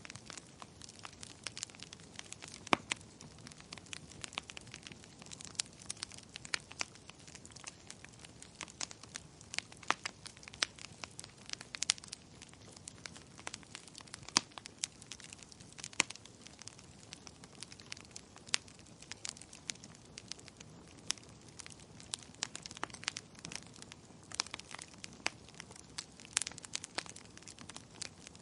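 Wood fire crackling in a fireplace: frequent irregular sharp pops and snaps over a low steady hiss.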